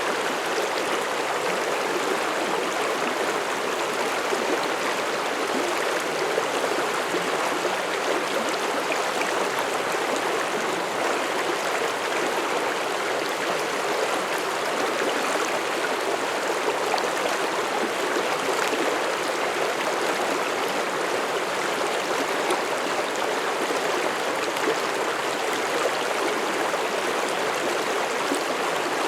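Mountain stream rushing and babbling over rocks, a steady, even sound of flowing water.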